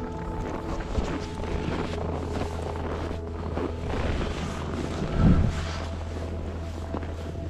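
Wind rumbling on the microphone, with a louder gust or buffet about five seconds in.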